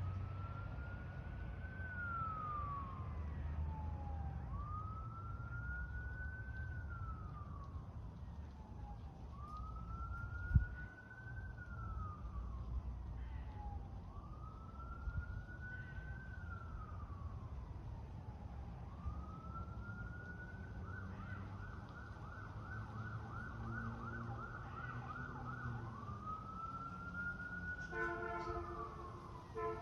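Emergency vehicle siren wailing in slow sweeps that rise and then fall, about one every four to five seconds. Past the middle it switches for a few seconds to a fast yelp, and near the end a deep multi-tone horn sounds in short blasts. Underneath runs a low traffic rumble, with one sharp thump about ten seconds in.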